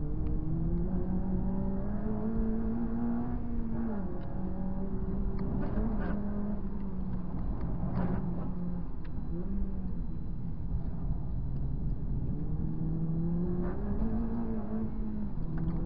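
Honda Civic Type R FD2's K20A four-cylinder engine running at high revs on track, heard from inside the cabin over tyre and road noise. The engine note climbs and falls with the throttle, dropping sharply about four seconds in and again near the end.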